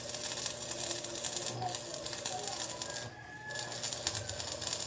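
Ratchet wrench clicking rapidly as bolts are worked while mounting a motorcycle to a sidecar, with a short pause about three seconds in.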